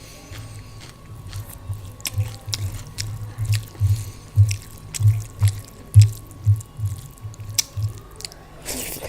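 A person chewing a mouthful of food close to the microphone, with an even rhythm of about two low chews a second and soft wet clicks. Near the end comes a short breathy rustle.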